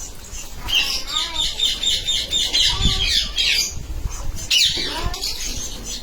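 Indian ringneck parakeets squawking: a rapid run of repeated harsh calls lasting about three seconds, then one more short call near the end.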